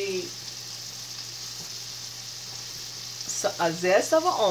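Battered chicken chunks frying in peanut oil in a pan, a steady sizzle.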